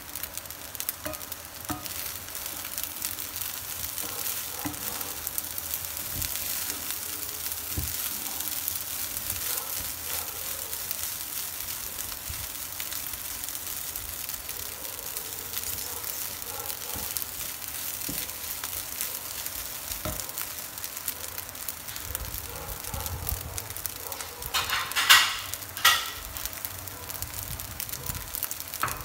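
Fried rice with shrimp sizzling in a non-stick frying pan as a wooden spatula stirs and turns it: a steady hiss with fine crackling, and two louder bursts of stirring noise near the end.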